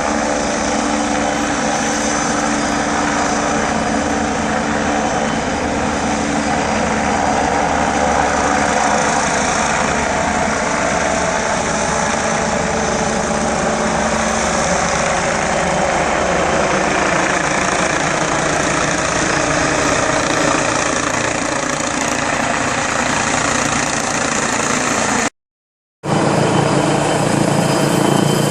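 MBB Bo 105 twin-turbine helicopter running steadily with continuous rotor and turbine noise while hovering on a lift. The sound cuts out abruptly for a moment about three seconds before the end, then returns heavier in the low end.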